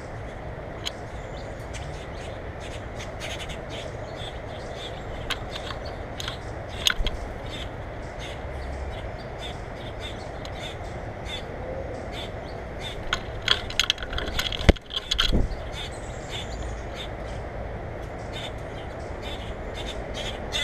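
Birds at a feeder giving many short, sharp calls over a steady hiss, with two knocks about three-quarters of the way through.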